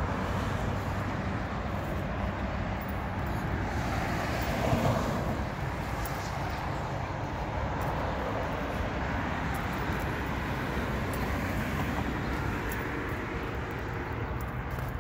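1974 Chevrolet Corvette Stingray's V8 engine idling steadily.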